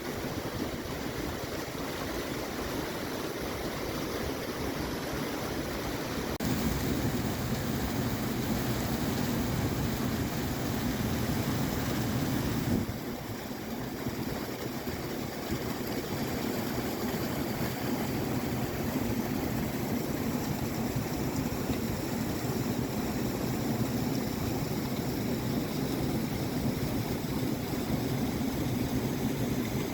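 Steady rushing of river water, with two sudden shifts in level about six and thirteen seconds in.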